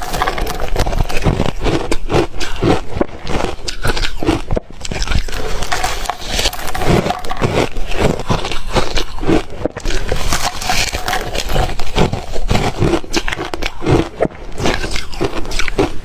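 Re-shaved refrigerator ice being bitten and chewed close to the microphone: rapid, irregular crunching and crackling that goes on without a break.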